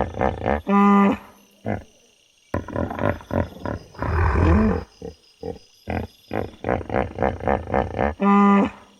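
Animal calls: quick runs of short pulsed grunts, broken twice by a brief clear pitched cry, once about a second in and again near the end, with a rougher noisy call in the middle. The pattern repeats like a looped recording.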